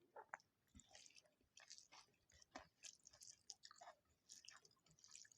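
Close-up chewing of a mouthful of food, with quick irregular wet mouth smacks and soft clicks, several a second.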